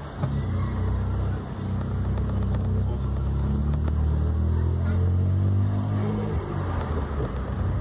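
VW up! TSI's turbocharged three-cylinder engine running at low revs while driving, a steady drone that rises a little then eases off about six seconds in.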